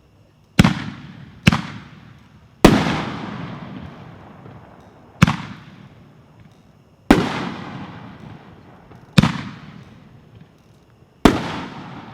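60-gram consumer canister firework shells (Corn Cannon) fired from mortar tubes: seven sharp bangs, one to two seconds apart, each trailing off in a long echo.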